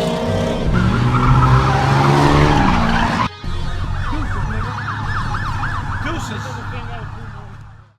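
A car engine revs hard, its pitch climbing, then cuts off abruptly. A police siren follows, yelping in fast up-and-down sweeps over a steady low engine hum, and fades out near the end.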